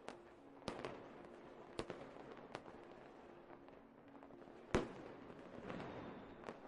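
Fireworks at low volume: scattered, irregular bangs, about six in all, some followed by crackling, with the loudest bang a little after the middle.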